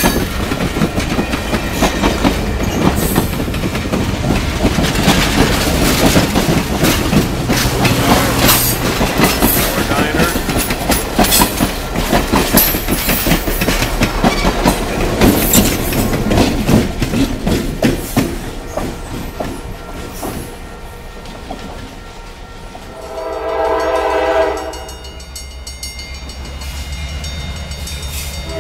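Passenger train cars passing close by, their wheels clattering and clicking over the rail joints, the noise easing off after about twenty seconds. A low diesel engine rumble follows, and a locomotive's air horn sounds one long blast a couple of seconds later, with a second blast starting at the very end.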